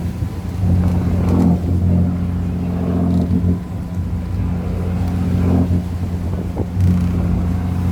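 Boat's engine droning steadily at a low pitch, with swells of rushing noise every second or two over it.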